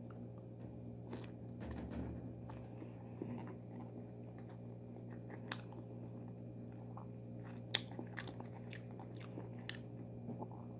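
A person chewing a mouthful of rice mixed with yogurt and cucumber, with scattered small wet mouth clicks and smacks. A steady low hum runs underneath.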